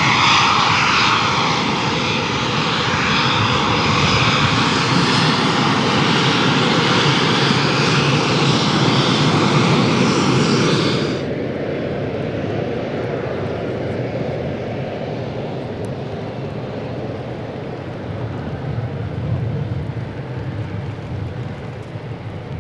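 Eurofighter Typhoon's twin EJ200 turbofan jet engines, loud on landing. The high, hissing jet whine cuts off abruptly about halfway through, leaving a lower rumble that slowly fades.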